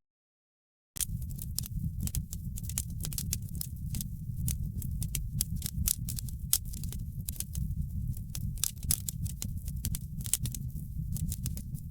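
Wood fire crackling in a fireplace: a steady low rumble of the burning fire under many sharp, irregular crackles and pops. The sound is completely absent for about the first second, then comes in abruptly.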